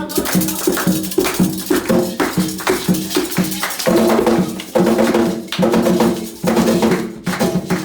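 Candomblé atabaque drums played fast in a steady rhythm for a ritual song, breaking off at the end.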